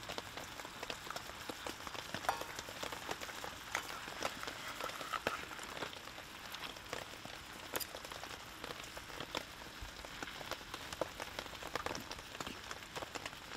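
Steady rain falling, with many single drops ticking sharply over an even hiss.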